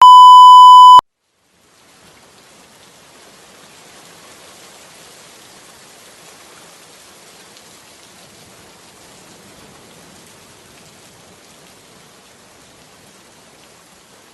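A loud, harsh beep lasting about a second, then, after a brief pause, steady falling rain.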